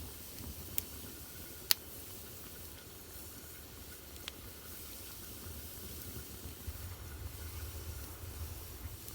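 Wood fire burning in a fireplace: a steady hiss and low rumble of the flames, with three sharp crackling pops, the loudest just under two seconds in.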